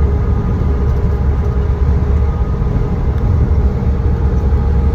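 Steady low rumble of a truck's engine and road noise heard from inside the cab while driving, with faint steady tones above the rumble.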